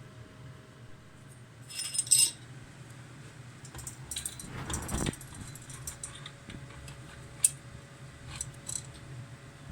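Small metal parts and tools clinking on a workbench during engine assembly. A cluster of jingling clinks comes about two seconds in, a brief scrape around the middle, and a few single sharp clicks near the end, over a steady low hum.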